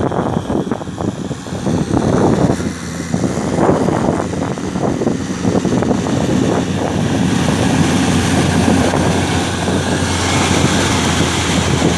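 Tractor engine running steadily under load, a loud continuous mechanical drone. In the second half, a hiss of wind on the microphone rises over it.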